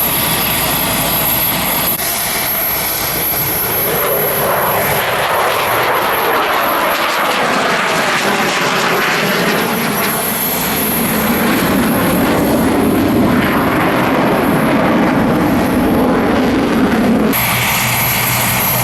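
AW249 Fenice attack helicopter flying a display pass: loud, steady engine and rotor noise that swells and sweeps in pitch as it moves past. Near the end the sound changes abruptly to a steadier, lower hum.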